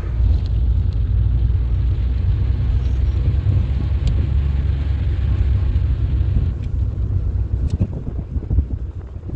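Steady low rumble, easing slightly about seven seconds in.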